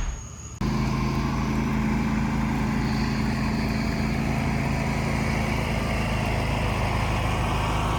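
Diesel pickup truck engine idling steadily, cutting in suddenly about half a second in as a tail of music fades out.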